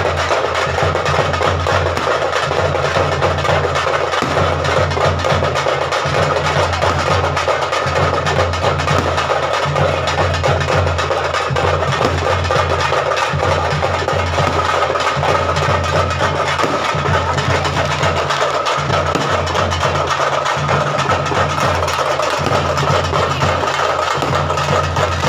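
Percussion-heavy festival music: fast, dense drumming with a pulsing low drum beat and a steady high held tone over it.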